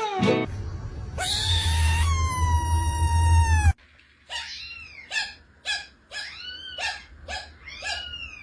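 Cat meowing: one long drawn-out meow, then a run of short mews, each rising and falling in pitch, about half a second apart.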